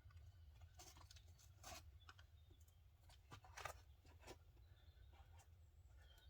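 Near silence with a few faint, scattered scuffs and taps: a climber's shoes and hands on a sandstone boulder.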